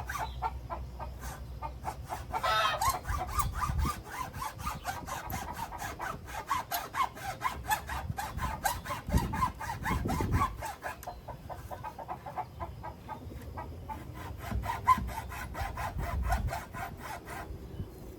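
Hand saw cutting through a wooden board in quick, even strokes that stop shortly before the end. Chickens cluck throughout, with one louder call about three seconds in.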